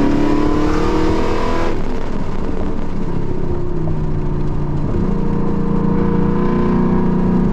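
Car engine heard from inside the cabin at speed, rising in pitch under hard acceleration, then cutting off sharply about two seconds in as the throttle is lifted. It then runs at a lower, steadier pitch that steps up again about five seconds in.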